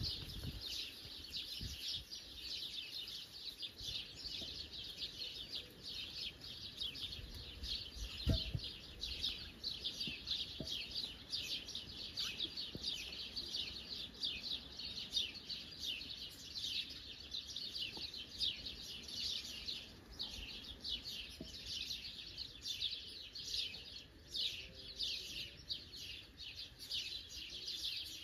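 Many small birds chirping rapidly and without pause, with overlapping high-pitched calls. A single dull thump comes about eight seconds in.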